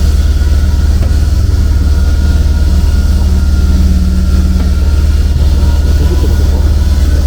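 A steady, loud, low mechanical drone of a machine running without change.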